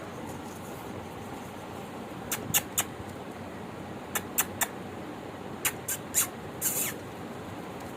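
Small pet birds chirping: short, high chirps in small groups of two or three over a steady hiss, with a slightly longer call near the end.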